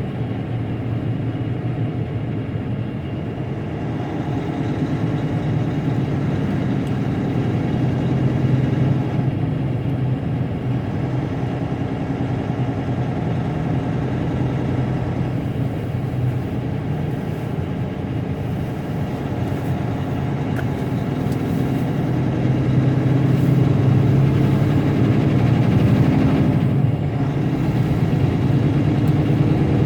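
Tractor-trailer's diesel engine running steadily with road noise while driving, heard from inside the cab; it gets a little louder about three quarters of the way through.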